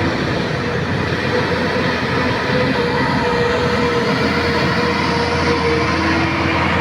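A heavy truck's engine running hard under load on a steep climb, as a loud steady drone with a faint whine on top.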